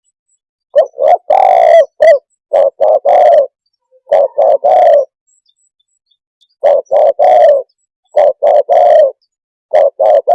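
Spotted dove cooing: loud, repeated phrases of mostly three short, low coos each, about six phrases with short pauses between them.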